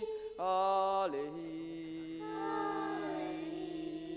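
Slow chanted singing on the word "holly", in long held notes. About half a second in a louder note is sung, then drops in pitch and a lower note is held to the end, with a fainter voice wavering above it partway through.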